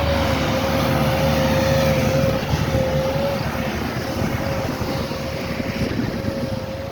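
Heavy diesel snow-clearing machine running close by, a steady low engine rumble with a continuous whine above it.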